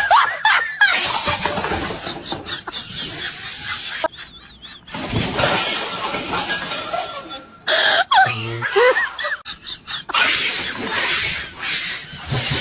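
A person laughing hard, in long breathy fits with short breaks between.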